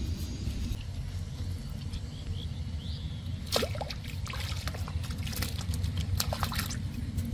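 Water splashing and trickling in a run of short splashes from about halfway through, over a steady low rumble.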